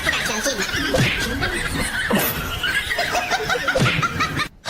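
People laughing in quick repeated bursts of giggles, cut off suddenly near the end.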